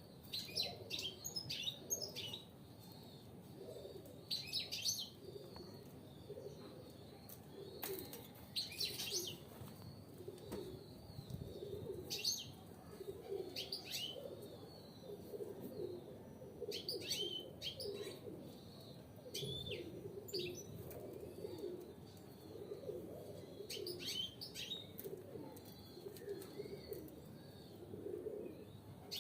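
Caged European goldfinches calling, short clusters of high chirps every few seconds.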